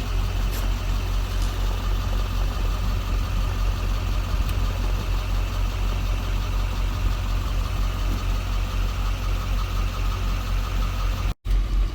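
Duramax V8 turbo-diesel in a Chevrolet Express van idling steadily at operating temperature, with a brief gap in the sound near the end.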